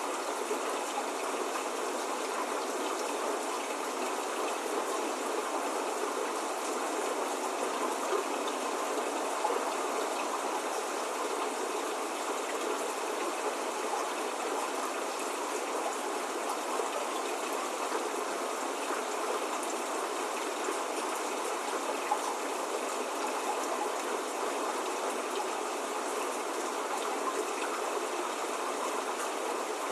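Steady spring rain: an even, unbroken hiss of falling drops, with no thunder or birdsong.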